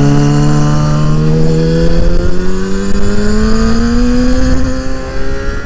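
Kawasaki ZX6R inline-four sportbike engine pulling hard under acceleration, its pitch climbing steadily through the revs over about four seconds.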